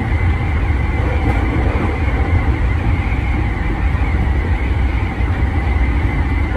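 JR 209 series 500-subseries electric train running at a steady speed on elevated track, heard from inside the front car: a steady deep rumble of wheels on rail with an even running hiss.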